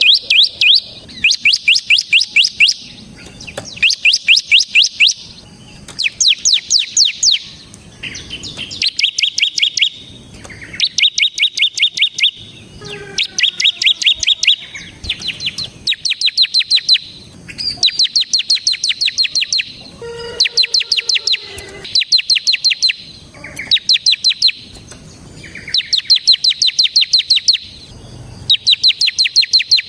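Bar-winged prinia (ciblek semi) in full song: bursts of rapid, high, down-slurred notes about a second long, repeated about every two seconds. This is the fast rattling 'ngebren' delivery. A fainter, lower-pitched call comes in twice along with it.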